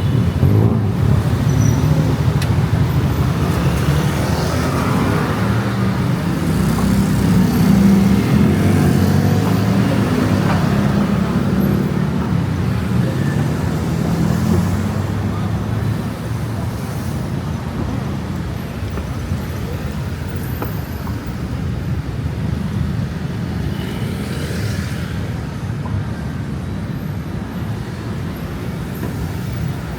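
Busy road traffic: a steady low rumble of vehicle engines, heaviest in the first half, with vehicles swishing past now and then.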